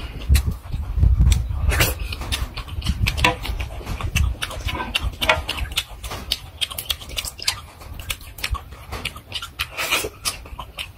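Close-up eating sounds of a man chewing boiled fish and fresh red chili: wet chewing, lip smacks and breaths in a quick, uneven run of clicks. A low rumble sits under the first few seconds.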